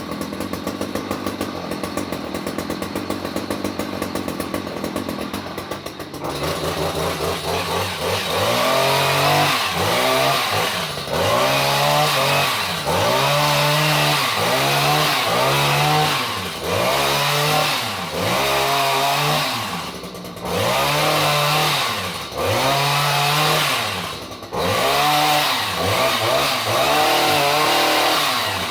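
Chainsaw idling, then revved over and over from about six seconds in, its pitch rising and falling about every two seconds.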